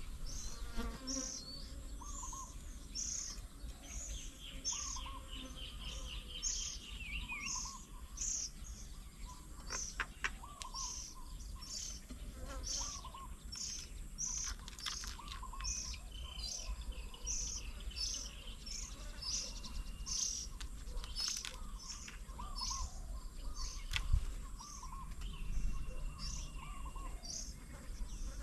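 Several birds calling together. One repeats a short high note about twice a second, while others give lower short notes and now and then a rapid trill.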